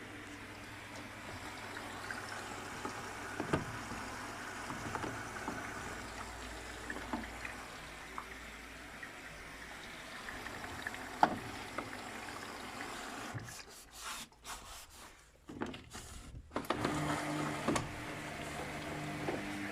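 Luxor WM 1042 washing machine in its rinse cycle: water sloshing in the turning drum with occasional knocks. Near the end the sound cuts out briefly, then a steady low motor hum starts.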